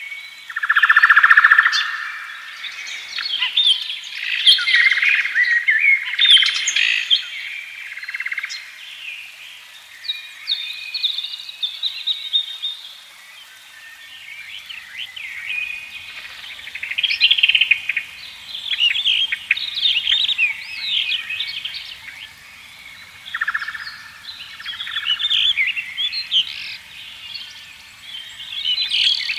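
Several songbirds singing and chirping together in overlapping phrases of quick, varied whistled notes.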